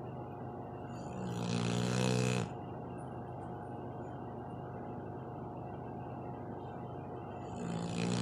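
Dog snoring: a long snore that swells for about a second and cuts off sharply, then another starting near the end.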